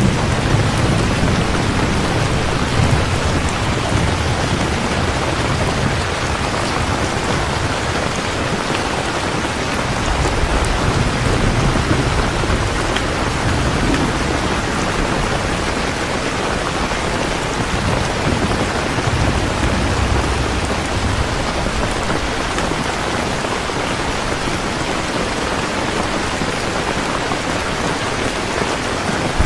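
Heavy rain falling steadily, with low rolls of thunder swelling up several times.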